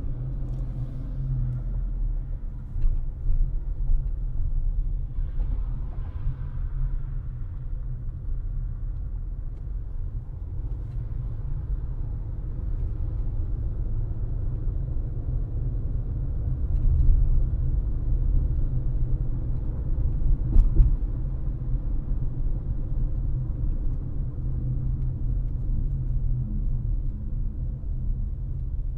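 Car driving at road speed, heard from inside the cabin: a steady low rumble of tyres and engine, with a few brief thumps from the road, the loudest about twenty seconds in.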